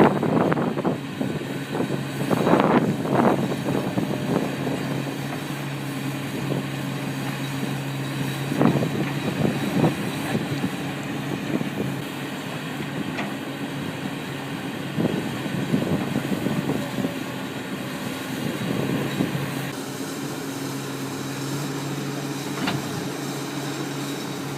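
Heavy diesel engine of a crane running steadily, with louder surges near the start, a couple of seconds in and again around the middle, as the machine works its arm to push itself out of deep mud.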